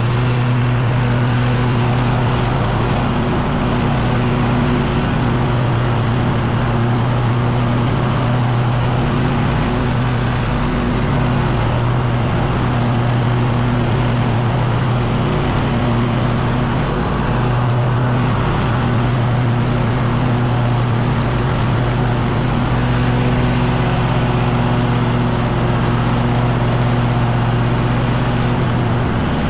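Echo PB-9010T two-stroke backpack leaf blower running steadily, with a few brief dips in its engine note.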